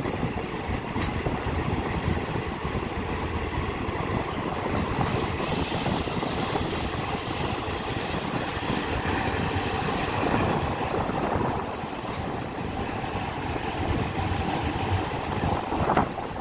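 Passenger train running, heard from a carriage window: a steady rumble and rattle with scattered clacks of the wheels over rail joints.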